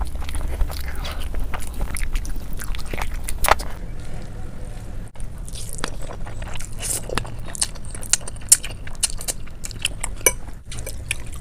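Close-miked eating sounds: wet chewing and mouth smacking as spicy curry and rice are eaten by hand, then, after a break about five seconds in, chewing of a mouthful of noodles, with many short sharp clicks.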